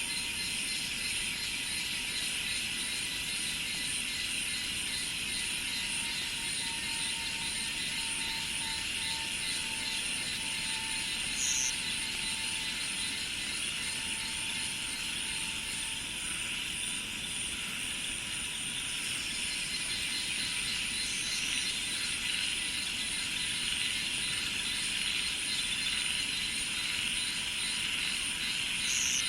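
Steady chorus of insects such as cicadas and crickets, trilling in dense, fast-pulsing high layers. A short high chirp sounds about three times, roughly ten seconds apart.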